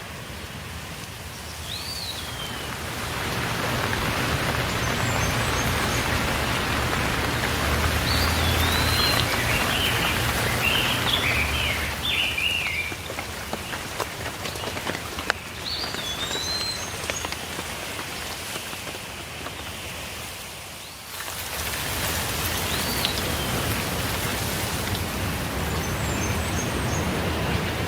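Steady rain falling, with a bird calling now and then in short whistled notes that rise and fall, including a quick run of notes. The rain grows louder a few seconds in and eases briefly about two-thirds of the way through before coming back.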